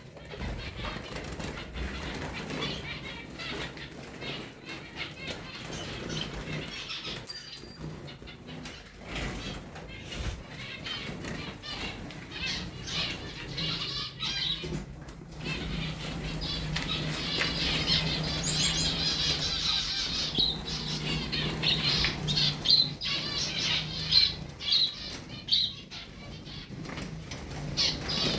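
Small finches fluttering their wings, with rapid chirps and twitters that grow busier about halfway through. A low steady hum runs underneath in the second half.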